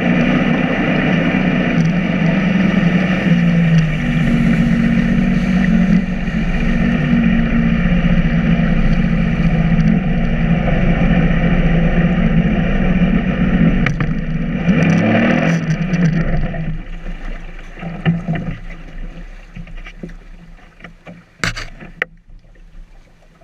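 Sea-Doo personal watercraft engine running at low speed over rushing water, its pitch shifting a couple of times. About 17 seconds in it fades away, leaving softer water sounds and a few sharp knocks near the end.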